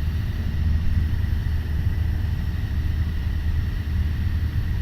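Piper PA-28 Warrior's four-cylinder Lycoming engine droning steadily in flight, heard from inside the cockpit.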